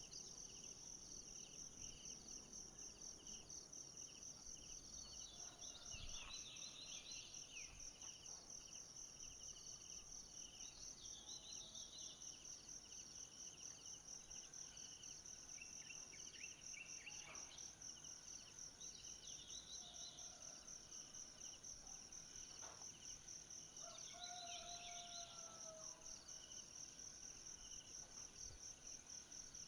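Faint forest ambience: a steady, high-pitched pulsing insect chorus, with scattered short bird chirps and a few faint clicks. A brief whistled call comes near the end.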